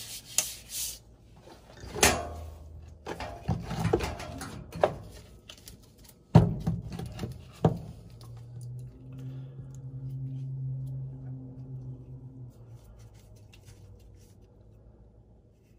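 Tools and metal furnace parts knocking and clattering, with a few sharp knocks, then a low steady hum for about four seconds that fades out.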